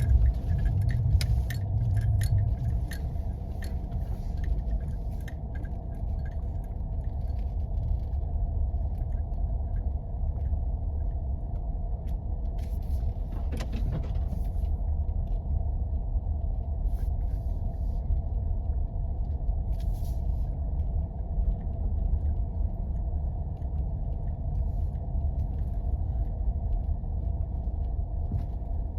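4x4 driving on snow-covered roads: a steady low rumble of engine and tyres. Light clicks and rattles cluster in the first few seconds, with a few more scattered later.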